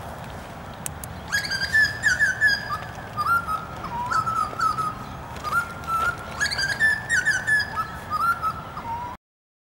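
A bird singing: a run of whistled notes that jump and slide between pitches in repeated phrases, starting about a second in, over a steady outdoor background, until the sound cuts off abruptly near the end.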